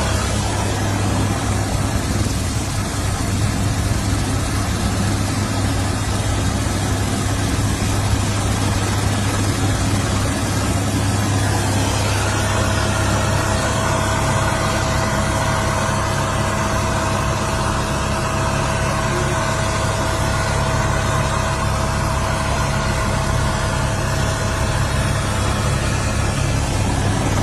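A steady engine drone at a constant low pitch over a dense hiss, with a thin steady whine joining about halfway through.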